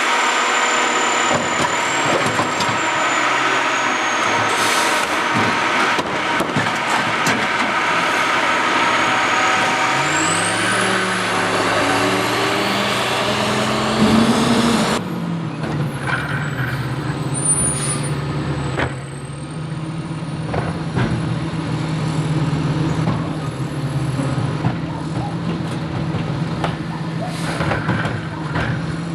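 Garbage truck's diesel engine and hydraulics working. A dense mechanical clatter fills the first half. About ten seconds in the engine revs up. From about halfway it settles to a steady low idle.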